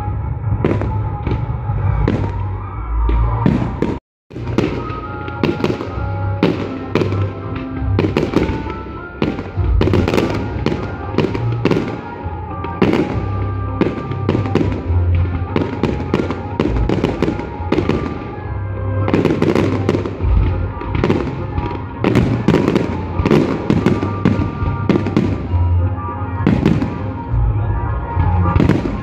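Fireworks display: aerial shells bursting in quick, irregular succession, bangs and crackles one after another, over music with held tones. The sound cuts out completely for a moment about four seconds in.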